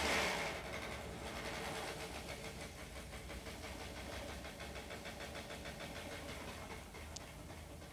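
A toppled electric fan whirring with a fast, even, rhythmic flutter that slowly fades.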